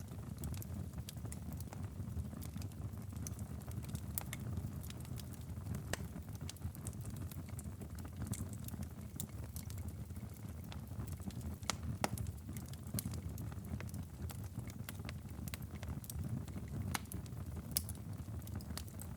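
Wood fire crackling in a fireplace: a steady low rumble of flames with scattered sharp pops and snaps, a few louder ones standing out.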